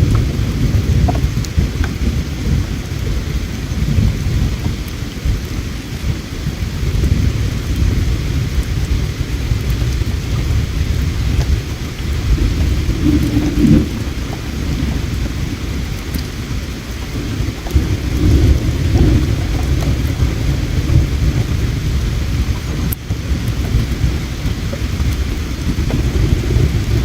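Flowing river water with a steady low rumble, and a few faint sharp crackles from a campfire.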